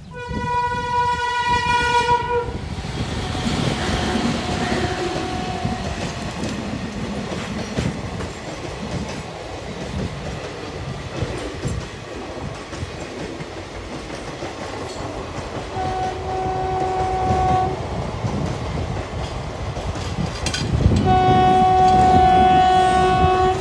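Indian Railways electric locomotive horns and an express train running past, its coaches rumbling and clattering over the rail joints. A long horn blast sounds at the start, shorter two-note blasts come about four seconds in and again around sixteen seconds, and a loud two-note horn near the end comes from the oncoming WAP-7 electric locomotive.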